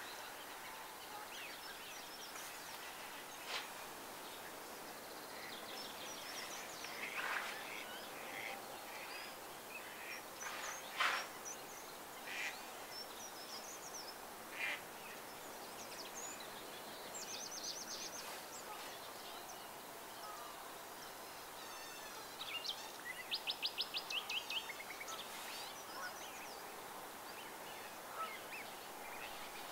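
Several wild birds calling over a steady background hiss: scattered short calls throughout, a rapid trill around the middle, and a louder rapid series of calls about three quarters of the way through.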